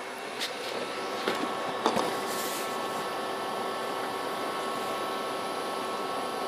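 Steady machine-like hum and hiss, with a few light clicks or knocks in the first two seconds.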